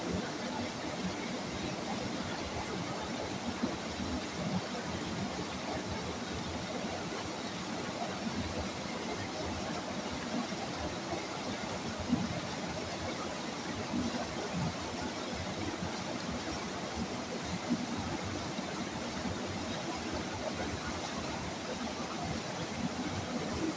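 River water rushing steadily, an even roar without let-up.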